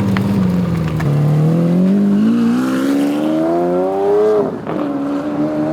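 V12 supercar accelerating hard. The engine note climbs steadily for about three seconds, drops sharply at an upshift about four and a half seconds in, then holds steady.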